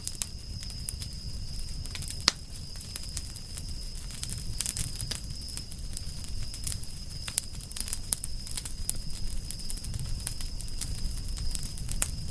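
Campfire of burning firewood crackling, with frequent sharp pops and one louder pop a little over two seconds in, over a low steady rumble.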